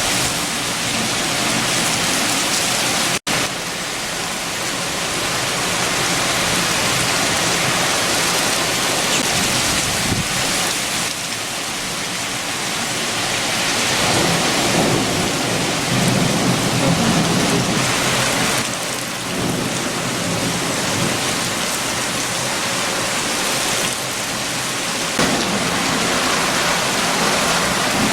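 Heavy rain with strong wind, a dense steady downpour with deeper swells around the middle. The sound cuts out for an instant about three seconds in.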